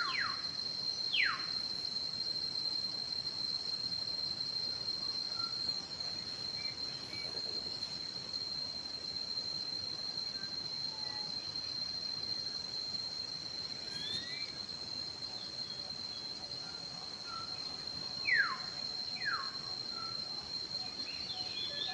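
Steady, high insect drone from crickets or cicadas, with a bird calling in pairs of quick falling whistles, twice near the start and twice near the end, and faint small chirps between.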